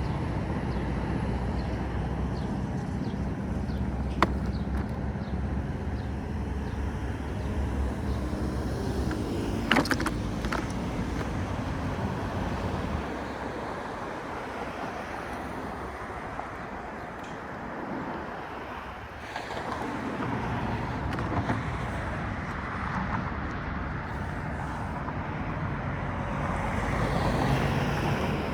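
Steady road and traffic noise heard while riding an electric unicycle. A heavy low rumble eases about halfway through. There is a sharp click about four seconds in and a couple of knocks around ten seconds.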